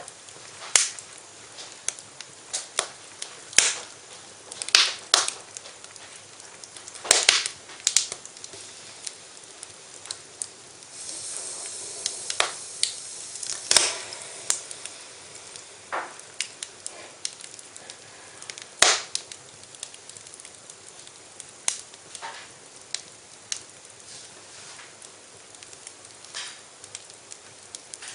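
Fire crackling in a fireplace, with irregular sharp pops, some close together and some a few seconds apart, over a low hiss. Near the middle a brief, louder hissing rises and fades.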